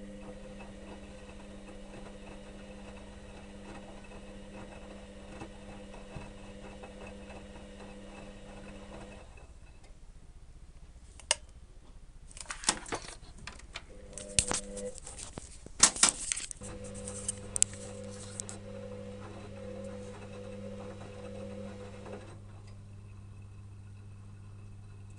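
Electrolux EWS 1045 front-loading washing machine on its wash cycle: the drum motor hums steadily, stops about nine seconds in, and a few seconds of splashing and clattering follow as the wash sloshes in the drum. The motor then hums again and stops near the end, leaving a low hum.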